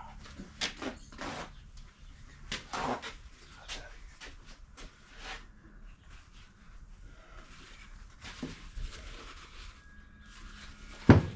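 Scattered knocks and clicks of parts and tools being picked up and set down on a workbench, with one louder knock near the end.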